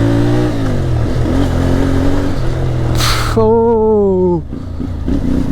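CFMoto 450MT's parallel-twin engine being ridden hard, the revs climbing and easing off with the throttle. A short hiss about three seconds in, then the revs fall steeply.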